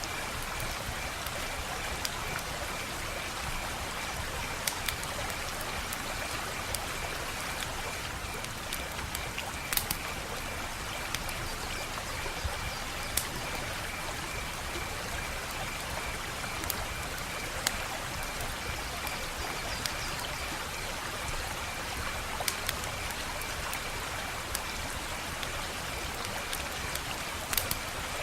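Wood fire burning with a steady hiss and irregular sharp pops and snaps, the loudest about ten seconds in and near the end. A faint steady high-pitched trill runs underneath.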